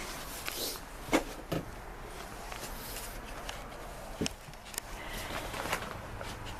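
A few scattered light knocks and clicks with some rustling in between.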